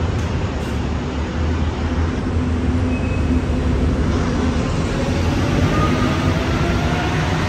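Train running at the station platform: a steady low rumble, with a faint whine that rises in pitch from about halfway through.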